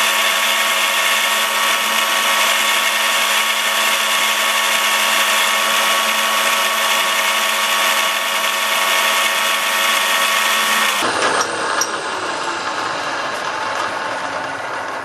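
Milling machine running and cutting stainless steel with a steady, whining machine sound. About eleven seconds in it changes abruptly to a quieter, rougher sound.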